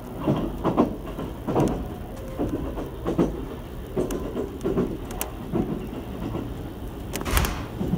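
JR Central 373 series electric limited express heard from inside the car while running, with a steady rumble and repeated thumps of the wheels clattering over rail joints. A louder clatter comes near the end.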